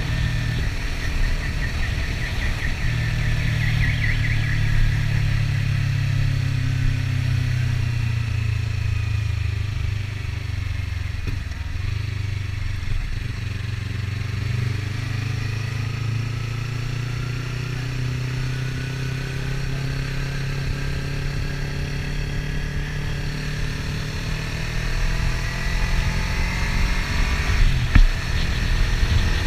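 Kawasaki Ninja 300 parallel-twin engine running under way, a steady low drone with the engine note gliding up and down. A short sharp knock near the end.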